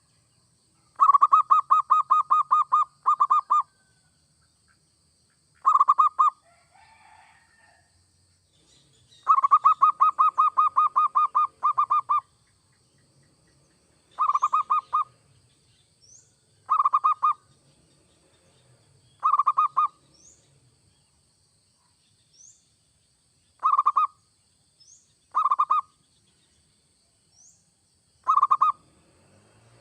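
Zebra dove (perkutut) cooing: runs of rapid staccato coo notes, two long runs of two to three seconds and several shorter bursts spaced a few seconds apart. Faint short high chirps sound between the later bursts.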